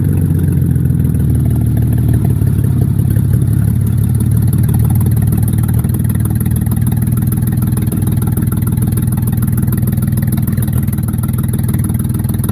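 Mercedes-Benz W210 E240's petrol V6 engine running steadily with no exhaust fitted, a loud, even stream of firing pulses. The engine has a misfire.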